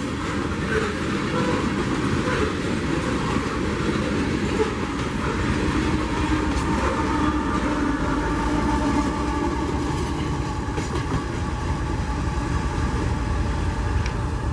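CSX freight train's cars rolling past on the track, a steady continuous rumble.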